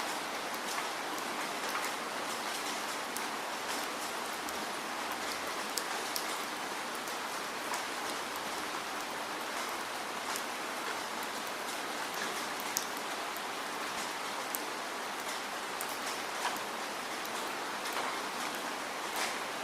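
Steady rain falling, an even hiss of many drops with scattered sharper drop ticks standing out here and there.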